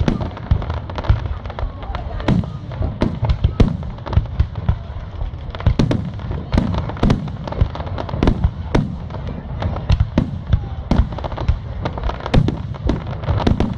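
Fireworks display: shells bursting in an irregular string of booms and sharp cracks, often one to three a second, over a continuous low rumble.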